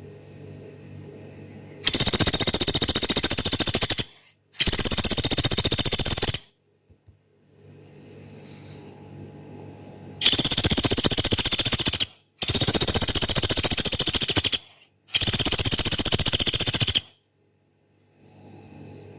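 Pelatuk beras, a small pygmy woodpecker, giving long, harsh, very rapid rattling calls: five rattles of about two seconds each, two close together early on and three more in quick succession in the second half.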